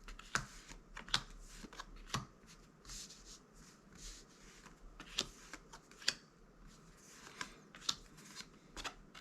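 Magic: The Gathering trading cards being flipped through and slid one by one in the hand: an irregular run of soft card flicks and swishes, roughly one every second or so.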